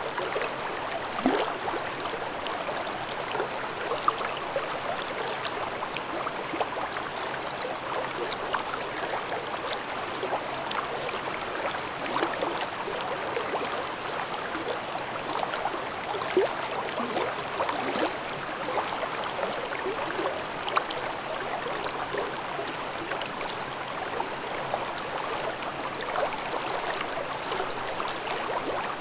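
Mountain stream babbling over rocks in a gorge: a steady rush of water with frequent small splashes and gurgles.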